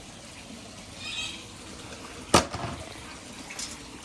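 Water running steadily from a tap, with one sharp knock a little over two seconds in.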